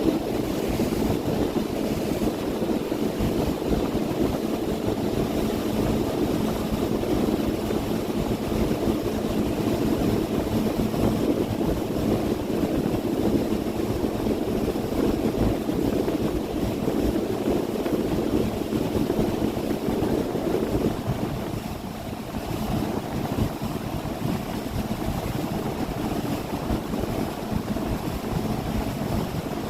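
Boat engine running steadily as the boat moves along, a constant drone mixed with wind and water noise, with a brief slight drop in loudness about two-thirds of the way through.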